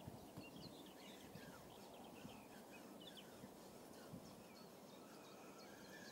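Near silence with faint small birds chirping, many short calls scattered throughout.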